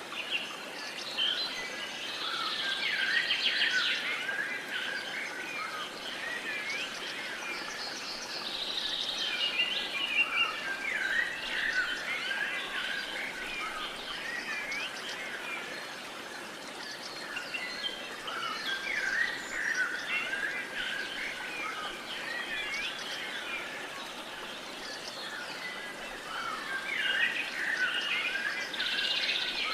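Several wild birds singing and chirping together, many short chirps and trills that swell and fade in waves every few seconds, over a faint steady hiss of outdoor background.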